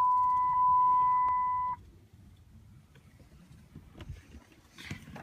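A steady, high electronic beep at one even pitch, which cuts off suddenly a little under two seconds in. After it there are only faint small knocks.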